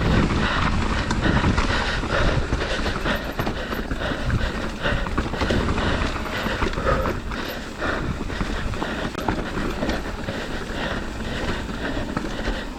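Mountain bike riding over rough trail: tyres on dirt and stones, with the chain and frame rattling and clattering without a break.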